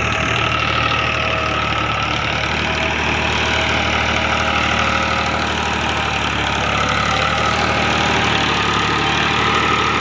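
Tractor engine running steadily at an even speed, with no revving.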